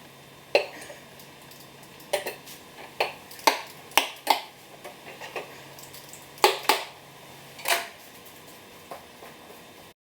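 Metal tools and parts clinking and clanking, about a dozen sharp irregular knocks, while a replacement belt is fitted to a lawn tractor's mower deck.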